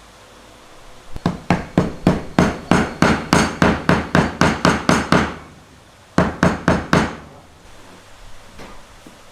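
Hammer striking pallet wood in a fast run of blows, about four a second, then a short pause and four more, with a few light taps near the end.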